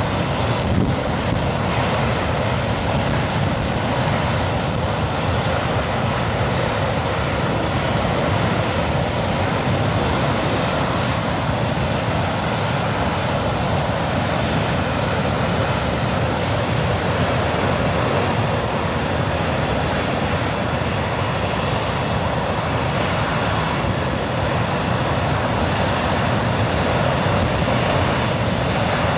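English Electric Lightning's Rolls-Royce Avon turbojet running steadily on a ground engine test, a loud, even rushing roar that holds level throughout.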